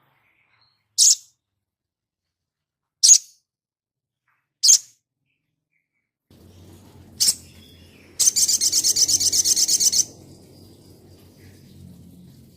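A sunbird-family songbird calling: four sharp, high single chips spaced one to two seconds apart, then a fast, high trill lasting about two seconds.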